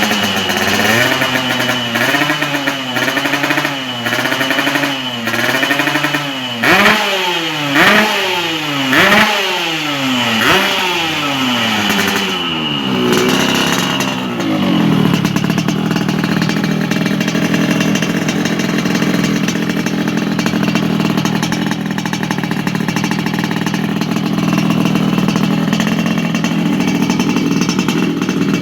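Yamaha RX-King two-stroke single-cylinder engine running through a raw galvanised underslung racing exhaust. It is revved in a string of quick throttle blips, each rising and falling in pitch about once a second, the four loudest and sharpest near the middle. After that it settles to a steady idle for the second half.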